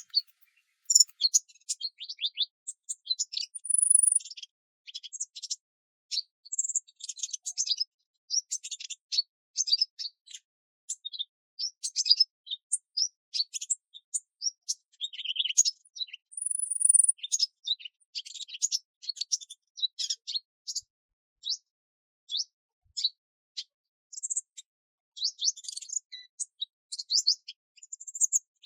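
Songbirds chirping and singing: many short, high notes and trills in quick succession, with a couple of longer high buzzy notes.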